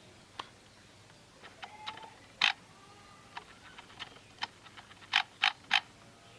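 Sparse light clicks and taps from small hard objects: one sharper tap about two and a half seconds in, then three loud quick taps in a row near the end.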